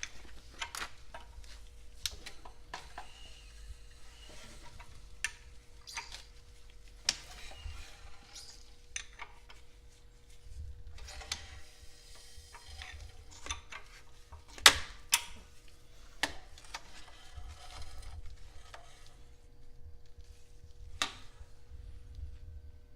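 Scattered metallic clicks and clinks of hand tools and parts being handled on an engine's timing chain area, with one sharp louder clink about two-thirds of the way in. A faint steady hum runs underneath.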